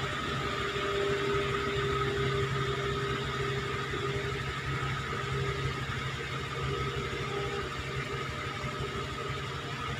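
Caterpillar motor grader's diesel engine running steadily at low, even revs.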